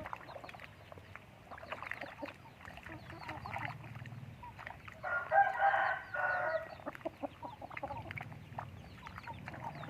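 Chickens clucking, with many small high chirps, and one loud crow from a rooster about five seconds in, lasting a second and a half or so.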